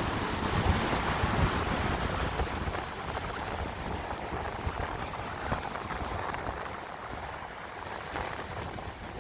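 Ocean waves washing ashore, with wind buffeting the microphone in low gusty rumbles. The wash is strongest for the first two seconds or so and then eases off.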